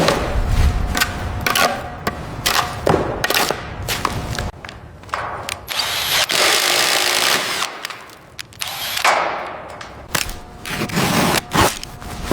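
Hand and power tool work: a run of sharp knocks and clatter, with a few longer noisy bursts, the longest lasting over a second about six seconds in.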